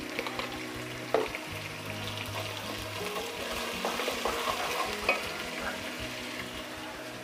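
Sliced onions and spice paste sizzling in hot oil in a metal pot while a wooden spatula stirs and scrapes through them, with a few sharp knocks of the spatula against the pot, one about a second in and several around four to five seconds in.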